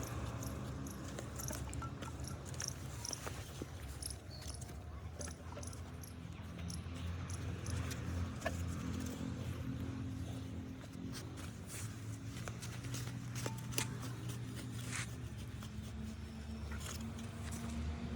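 Stationary engine running at a steady speed, with scattered light clicks over it.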